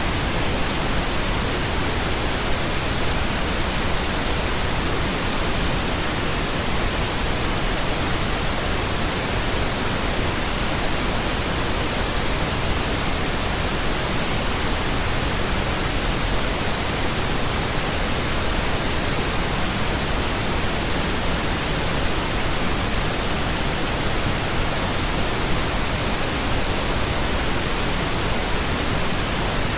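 Steady pink noise: an even, unchanging hiss with no breaks or variations.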